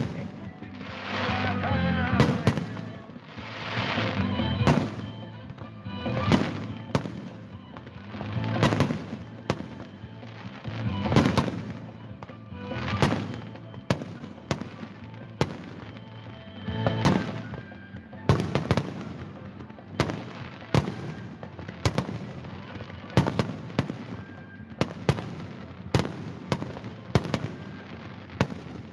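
Fireworks display: shells bursting one after another with sharp bangs and crackles, a loud burst about every one to two seconds.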